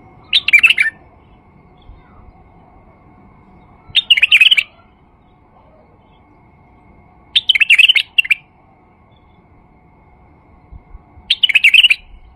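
Male white-eared bulbul singing: four short, loud warbled phrases, each under a second, spaced about three and a half seconds apart.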